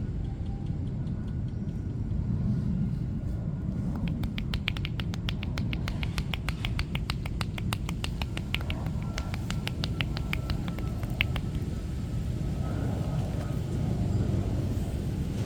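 Fast, even run of sharp clicking slaps, about five a second, from the massage therapist's hands in percussive massage, starting about four seconds in and stopping about eleven seconds in. Under it is a steady low rumble of street traffic.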